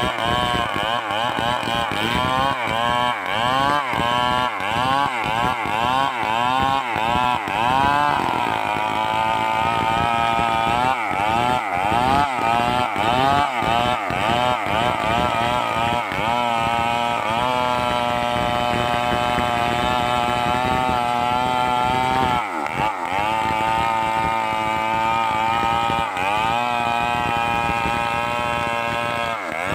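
Stihl 038 two-stroke chainsaw being revved up and down repeatedly, about twice a second. It is then held at steady high revs for several seconds, drops back sharply, and is revved again near the end.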